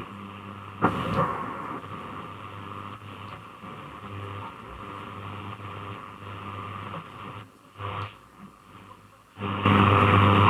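Grundig Satellit 2100 shortwave radio tuned between stations: a hissing band of static with a steady hum and occasional clicks, fading lower about three-quarters of the way through. About a second before the end a station playing music comes in loudly.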